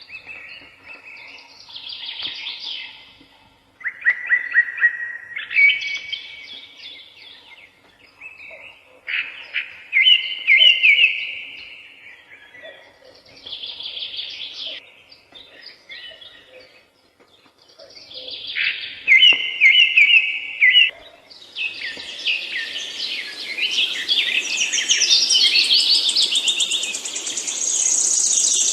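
Songbirds singing: short warbled and trilled phrases every few seconds. About three quarters of the way through, they thicken into a denser, higher chorus over a steady hiss.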